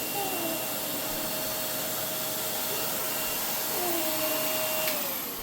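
Vacuum cleaner running with a steady hiss and whine, then switched off with a click about five seconds in, its motor winding down with a falling whine.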